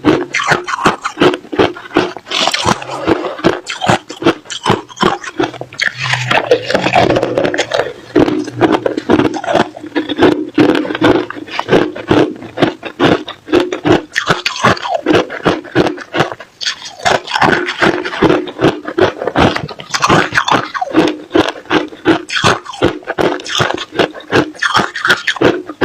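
Ice being bitten and chewed close to the microphone: a dense, continuous run of loud crunching and cracking.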